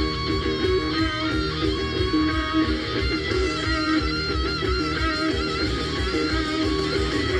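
Stoner-metal band music: electric guitars, bass and drums, with a lead line that wavers in pitch.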